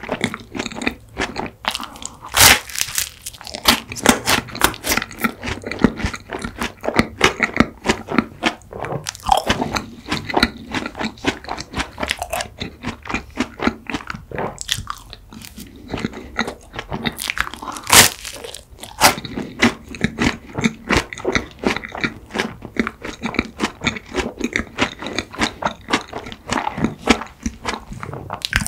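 Close-miked eating: a crisp waffle topped with cookies-and-cream ice cream and bites of mint chocolate ice cream cake chewed with many sharp crunches. Two crunches stand out louder, one a few seconds in and one past the middle.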